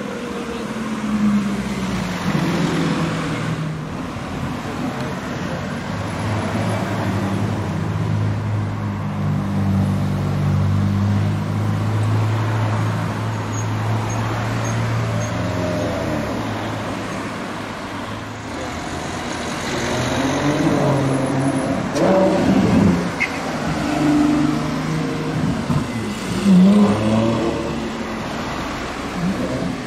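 Car engines in slow street traffic: a steady low engine drone for the first half, then engines rising and falling in revs with louder pulls in the second half, among them Ferrari 812 V12s pulling away.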